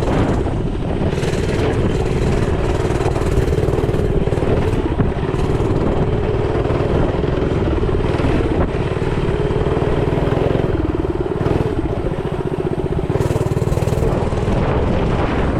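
Small single-cylinder motorbike engine running steadily while being ridden, with heavy wind noise over the microphone.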